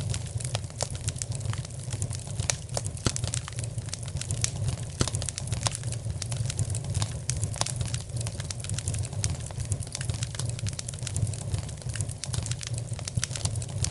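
Wood fire burning in a fireplace: constant irregular crackling and snapping over a steady low rumble of the flames.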